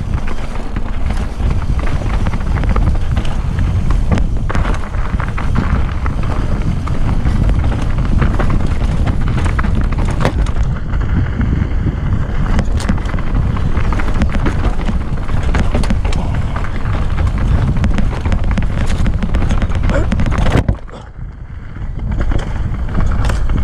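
Mountain bike riding fast down a rocky trail. Wind buffets the microphone, the tyres run over dirt and rocks, and the bike rattles with frequent sharp knocks. The noise drops off briefly near the end, then picks up again.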